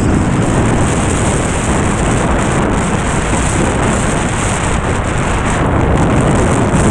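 Heavy, steady wind buffeting the microphone of a foil board rider in high wind, with a rushing hiss of water and spray.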